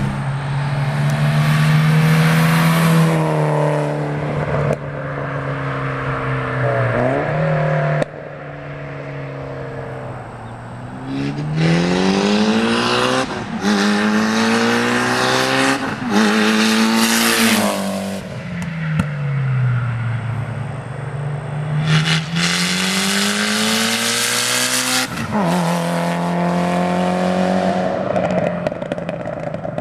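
Turbocharged Mitsubishi Lancer Evolution making full-throttle drive-by passes with its wastegate dumping to open air through an O2 dump housing. The engine pitch climbs through the gears and drops as the car goes by, over several passes joined by abrupt cuts.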